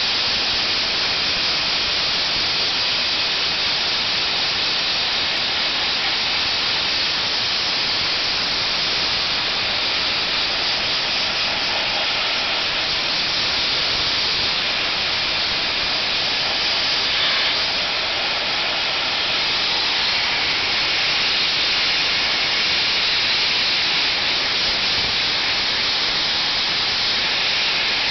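Soda blaster nozzle running continuously: a loud, steady hiss of compressed air carrying baking-soda media.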